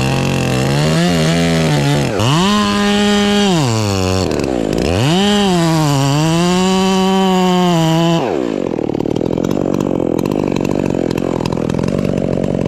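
Chainsaw cutting into the trunk of a rotten fir at the stump, the engine revving up and bogging down in pitch several times as the chain bites into the wood. After about eight seconds the sound changes to a steadier, lower run.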